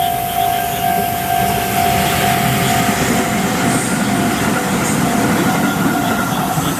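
Train passing through a Japanese railway level crossing, its rumble swelling from about a second in, while the crossing's warning bell keeps ringing in a steady beat of about two strikes a second.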